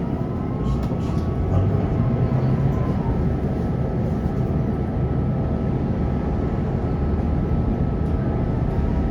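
Electric tram running on its rails: a steady rumble of wheels on track with the thin whine of the traction motors, which rises in pitch near the end as it picks up speed.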